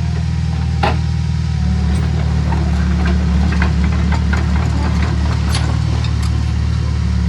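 Bulldozer's diesel engine running steadily, its low drone growing louder about two seconds in as it takes load. There is a sharp knock about a second in, then scattered clanks.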